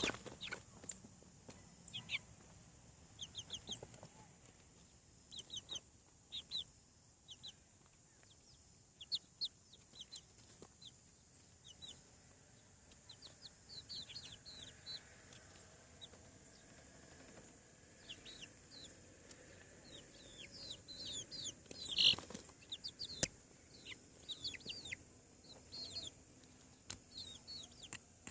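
Young chickens peeping: many short, high chirps that fall in pitch, scattered irregularly, busiest and loudest about three quarters of the way through, where a sharp knock and then a click also sound.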